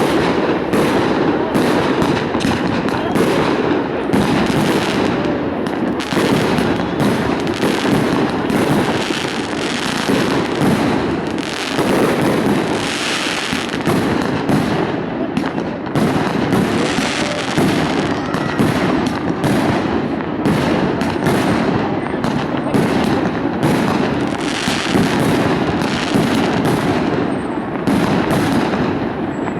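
Aerial fireworks exploding in a dense, continuous barrage of bangs and crackles, with a crowd murmuring underneath.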